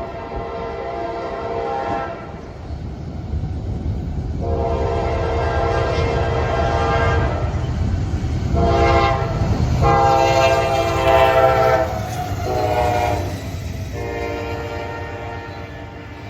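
Norfolk Southern diesel locomotive's multi-note air horn sounding a series of long and short blasts over the low rumble of the locomotives. The train grows louder as it approaches, loudest about eleven seconds in, then begins to fade.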